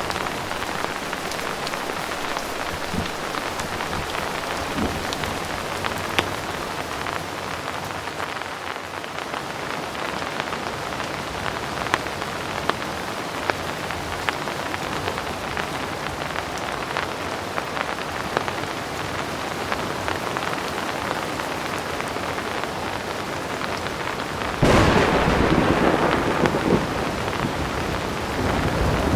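Heavy rain falling steadily, with scattered sharp drop hits. About 25 seconds in, a sudden clap of thunder breaks in and rumbles on for a couple of seconds before easing back into the rain.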